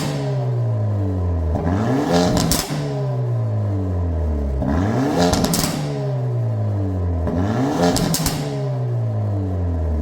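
Hyundai Avante N's turbocharged four-cylinder revved repeatedly through a straight-piped exhaust with the mid muffler removed: each rev rises quickly to a peak with a short crackle, then falls away slowly, about every two and a half seconds.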